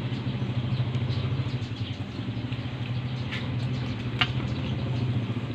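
Close-up chewing of crispy fried chicken, with a couple of sharp crunches about three and four seconds in, over a steady low mechanical hum.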